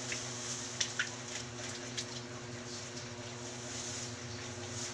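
A few light clicks and rustles of paper and small items such as pens being handled and dropped while sorting trash, over a steady low hum.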